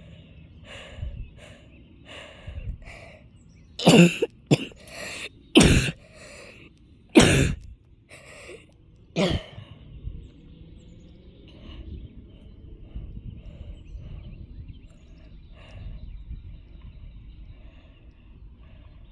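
A person coughing: a run of about six loud, harsh coughs between about four and nine seconds in, from someone who is sick.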